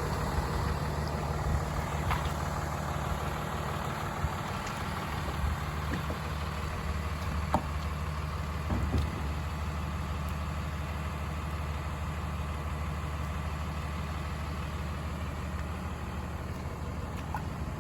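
Truck engine idling steadily, with a few light clicks and knocks over it.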